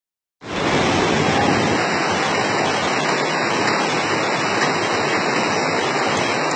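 Very heavy rain pouring down in a steady, dense hiss, starting about half a second in.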